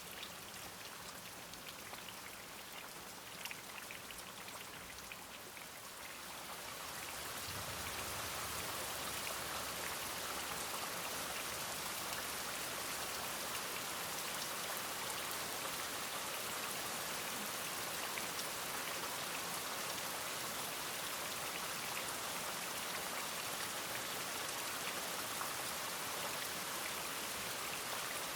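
Rain falling in a steady, dense patter. It swells heavier about seven seconds in and stays so.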